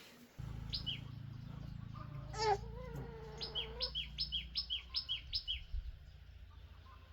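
A small bird chirping in short falling two-part notes, in a quick run of about three a second near the middle, over a steady low hum that comes on about half a second in.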